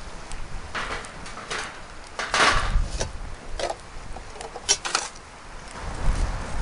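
Irregular light metallic clinks and rattles mixed with rustling, loudest about two and a half seconds in.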